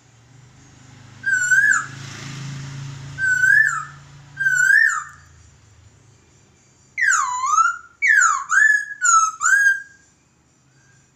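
Laughingthrush (poksay) singing in loud, clear whistles: three short rising-and-falling notes in the first five seconds, then a quick run of five or six deep swooping whistles about seven seconds in.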